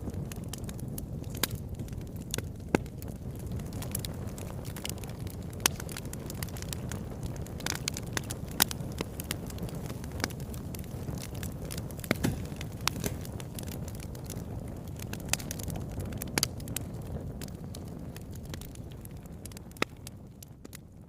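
Wood fire burning in a fireplace: a steady low rumble with scattered sharp crackles and pops, about one every second or two. It fades down near the end.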